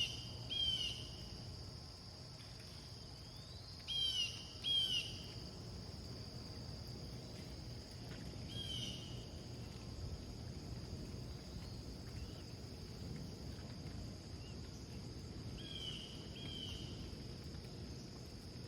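A bird calling in short downward-slurred notes, mostly in pairs, repeated every few seconds, over a steady high-pitched insect drone.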